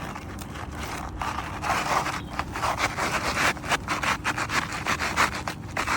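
Asphalt shingles scraping and rasping against each other in repeated rough strokes, several a second, as a replacement shingle is worked up into place under the course above. The strokes grow stronger about a second in.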